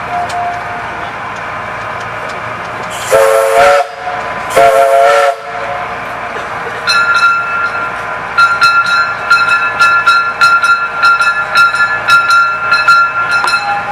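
Narrow-gauge tourist train sounding its whistle in two blasts, each under a second, followed by its bell ringing steadily at about two strokes a second.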